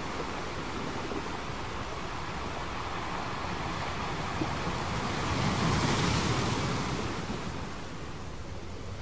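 Ocean waves washing in a steady surf, with one wave swelling louder about five to six seconds in and then ebbing away.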